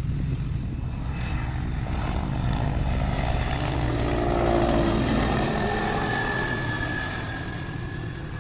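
Helicopter flying low, its rotor and turbine rumble growing louder to about halfway, then fading as it passes, with the whine dropping slightly in pitch.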